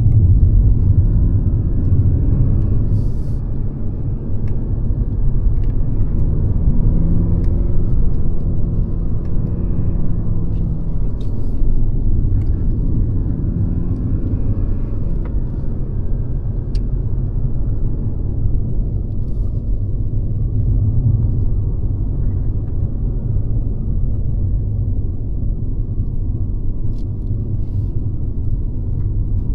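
Mercedes-Benz C-Class (W206) on the move: a steady low rumble of engine and road noise, with the engine note rising a little about a third of the way through.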